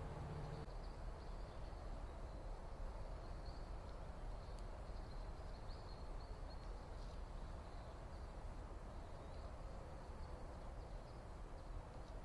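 Faint, short, high chirps from small birds, scattered throughout over a steady low background rumble.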